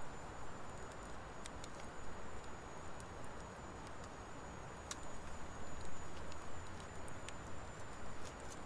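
Wood fire of driftwood and dry hardwood logs burning, with irregular sharp crackles and pops over a steady low rush; one pop stands out about five seconds in.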